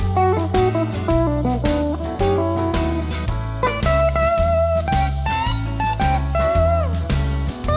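1989 Fender Telecaster single-coil electric guitar played clean through a Vox AC10C1 tube amp, picking a blues lead line of single notes and string bends over a blues shuffle backing track with bass and drums.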